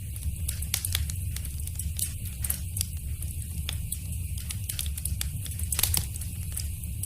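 Wood fire in a fireplace crackling: many quick pops and snaps over a steady low rumble, with the loudest pop about six seconds in.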